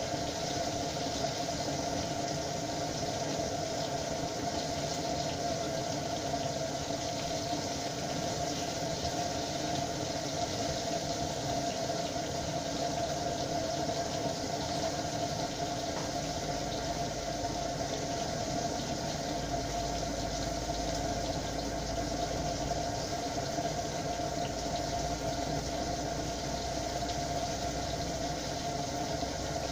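Pieces of crucian carp frying in oil in a pan, a steady sizzle, over a constant mechanical hum with a steady mid-pitched tone. A low rumble joins about halfway through.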